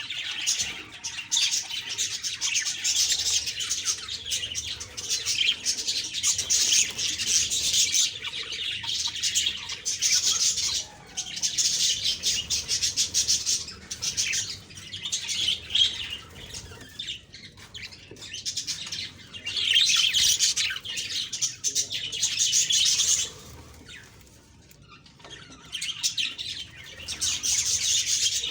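Budgerigars chirping and warbling in fast, dense chatter. It comes in bouts of several seconds separated by brief lulls, with the longest lull a few seconds before the end.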